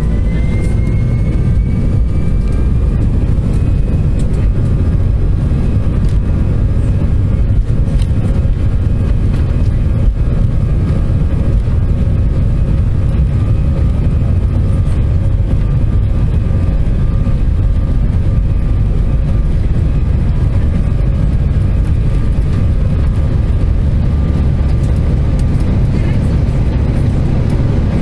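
Airbus A320-214 jet engines heard loud from inside the passenger cabin, with a heavy steady rumble underneath. The engine whine rises in pitch over the first few seconds, then holds steady.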